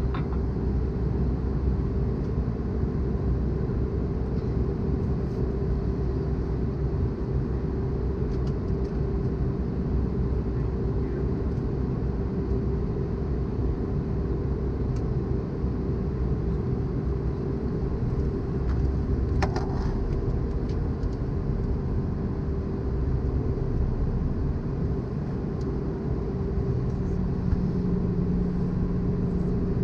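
Airbus A320 cabin noise during descent: a steady, low rush of airflow and CFM56 engine hum, with a constant tone running through it.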